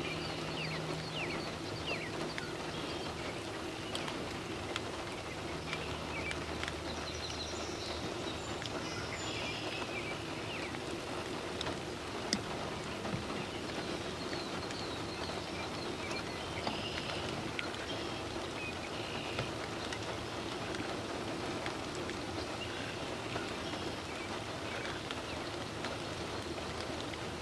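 Steady rain patter with scattered small drop ticks, and faint bird chirps now and then.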